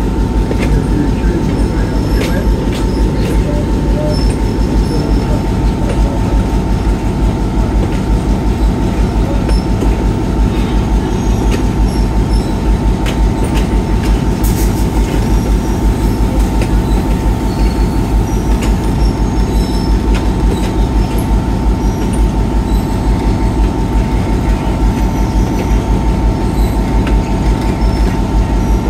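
Moving excursion train hauled by an EMD GP7 diesel-electric locomotive with a 16-cylinder 567 engine: steady running noise with a fast low throb, a constant high whine, and scattered clicks of the wheels over the rails.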